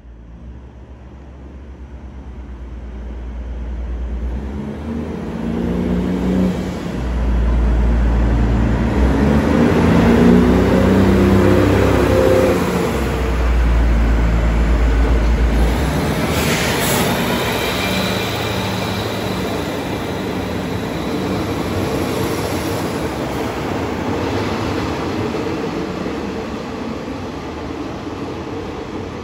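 State Railway of Thailand diesel railcar train running past along the platform. Its engines and wheels grow louder as the cars come by, loudest around ten seconds in, with a brief sharp sound about sixteen seconds in. The running noise then eases as the train moves away.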